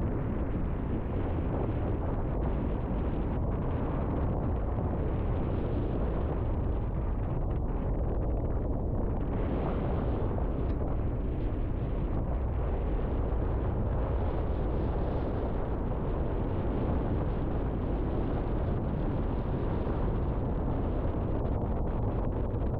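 River water rushing steadily, a dense unbroken noise of flowing water with a deep rumble.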